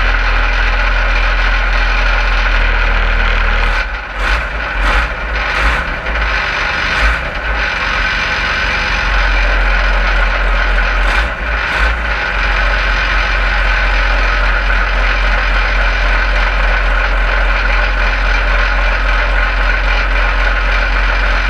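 Ursus 1224 tractor's diesel engine running after its first start following a two-month winter standstill. About four seconds in, the low drone breaks up for several seconds, with a few knocks, and then it settles into a steady run.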